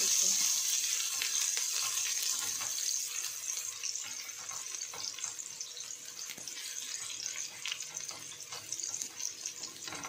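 Diced shallots sizzling in hot oil in a stainless steel wok, stirred with a wooden spatula that scrapes and taps the pan. The sizzle dies down over the first few seconds.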